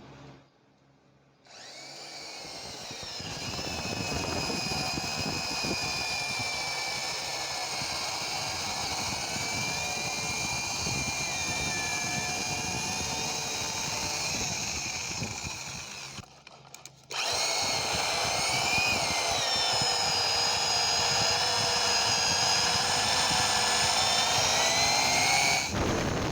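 Alligator lopper, a small electric chainsaw held in clamping jaws, cutting through a thick tree root: the motor whines with its pitch wavering under load, in two runs with a short stop about two-thirds of the way through.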